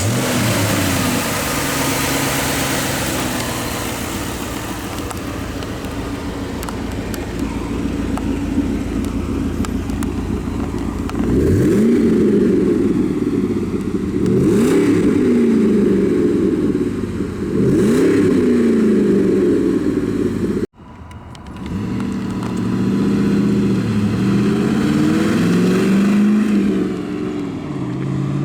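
1999 Ford Mustang GT's 4.6-litre V8 running at idle just after starting, then blipped three times in quick revs that rise and fall back. After a brief break it idles again and is revved several more times.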